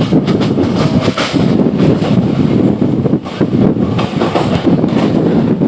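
Passenger train running at speed, heard from an open coach doorway: a loud, steady rumble of wheels on the rails with some clatter from the track.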